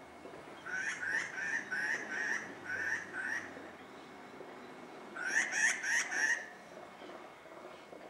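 A bird calling in two bouts of quick, repeated short rising notes: about seven notes in the first half, then four or five louder ones a little past the middle.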